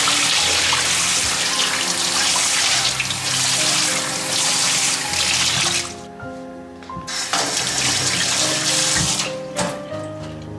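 Tap water running into a sink, shut off about six seconds in and turned on again a second later for a couple more seconds. Soft background music plays underneath.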